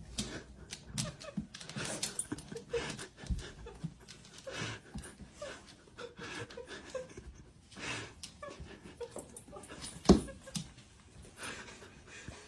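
A dog panting in short, quick breaths, with scattered small knocks and one sharp thump about ten seconds in.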